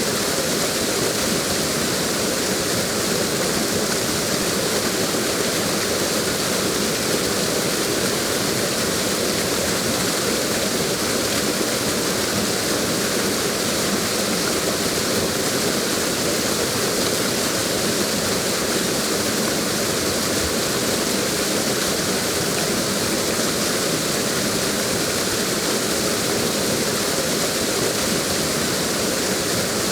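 Steady, even rush of a waterfall with no breaks or separate events.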